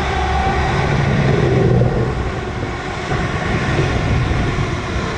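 Multiple-unit passenger train running past below and moving away: a steady rumble with a faint motor hum over it.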